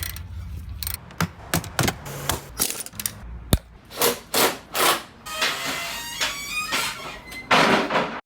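A fast edited run of sound effects: sharp clicks and knocks, whooshes, and a short series of falling tones, ending in a loud noisy burst that cuts off suddenly.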